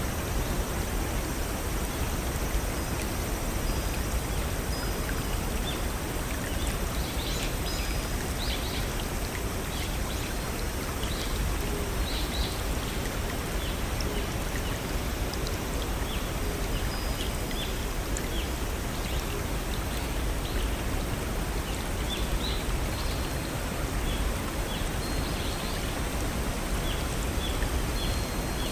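A small stream and waterfall splashing and flowing steadily. Brief, high chirps of small birds are scattered over it, thickest from about seven to thirteen seconds in and again in the second half.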